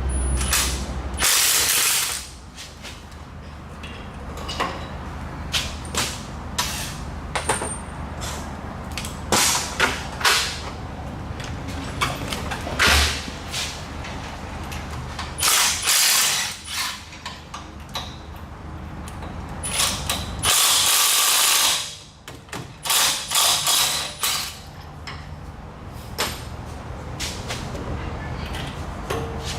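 Ratchet and hand tools working on exhaust manifold bolts: scattered clicks and metal clinks. Three roughly one-second bursts of hissing noise break in, the first about a second in and two more past the midpoint.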